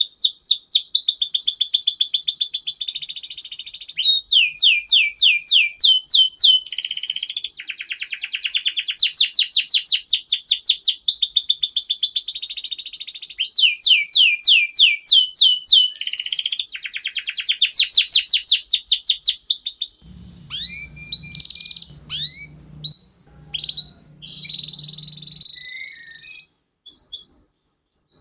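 Canary singing loudly in long, rapid trills of repeated high notes, changing roll from phrase to phrase. About twenty seconds in the song breaks off and gives way to quieter, scattered chirps and a short held whistle over a low hum.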